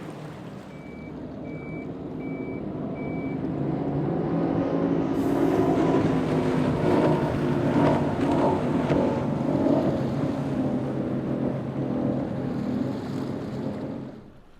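Boat engines running and growing louder toward the middle, then cutting off abruptly near the end. Four short, high electronic beeps sound about evenly spaced in the first few seconds.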